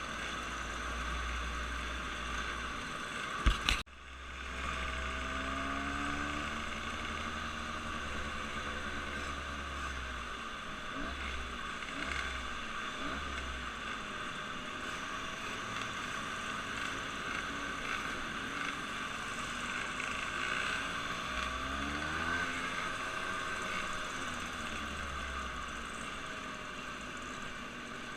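An engine running steadily, its note rising and falling several times, with a sharp knock about three and a half seconds in.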